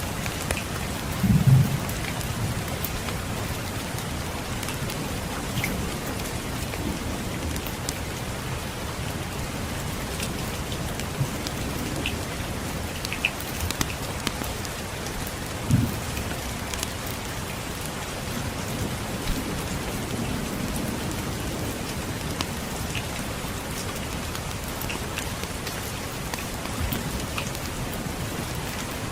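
Steady rain falling, with brief low rumbles of distant thunder about a second and a half in and again around sixteen seconds in. Scattered small pops and crackles of a wood fire run through the rain.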